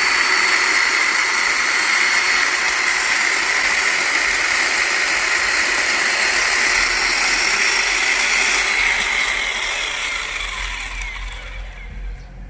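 Keyang 1460 W corded electric chainsaw running steadily at full speed with a high whine while cutting wood, then winding down near the end.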